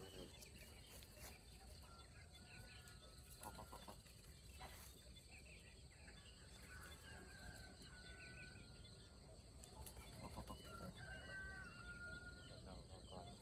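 Faint, distant bird calls over a quiet open-air background: several drawn-out calls held at one pitch and a couple of short, rapid clucking calls.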